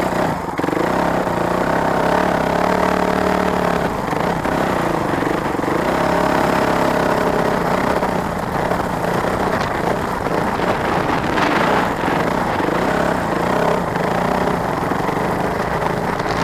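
Motorcycle engines running, holding a steady pitch for the first few seconds and then revving up and down.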